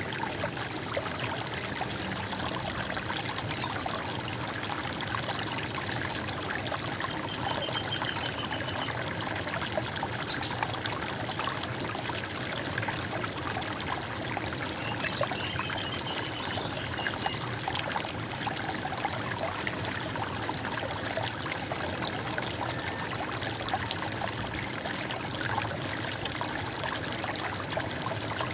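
Running water flowing steadily in an even, unbroken rush, with a couple of faint high chirps about a third and just over halfway in.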